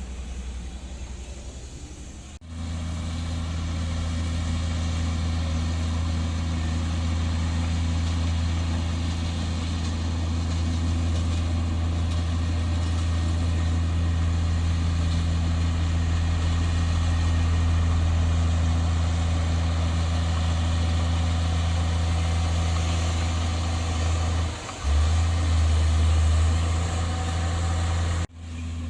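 Heavy diesel engine of earthmoving machinery running steadily with a deep hum. The sound changes abruptly about two seconds in and again near the end, with a brief dip and shift in the engine note shortly before the end.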